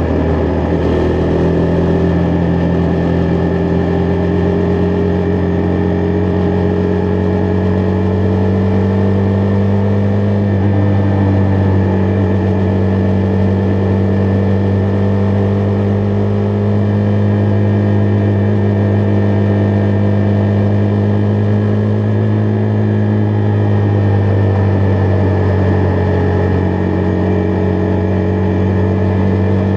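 Husqvarna Vitpilen 401's single-cylinder engine running under way at a fairly steady cruising speed, its pitch drifting slowly up and easing off a little near the end before rising again.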